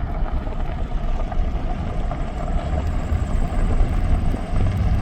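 Steady road and engine noise heard from inside a moving vehicle's cabin, a continuous low rumble.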